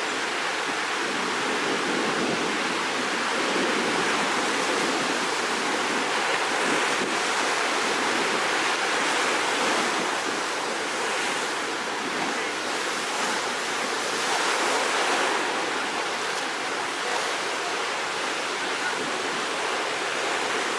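Rough sea surf ahead of a typhoon: waves breaking in a continuous rushing wash that swells and eases slowly.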